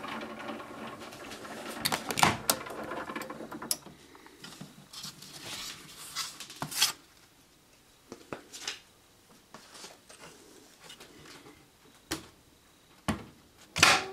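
Handling noises at a microwave: scattered sharp clicks and knocks, loudest about two seconds in and again near the end, over a faint hum that dies away after about four seconds.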